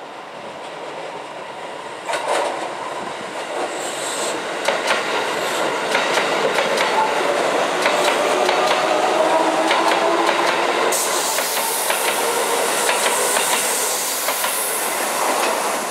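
Shin-Keisei 8800 series electric commuter train passing close by on curved track, growing louder as it approaches, with wheels clicking over rail joints and a whining tone in the middle of the pass. The sound cuts off suddenly at the end.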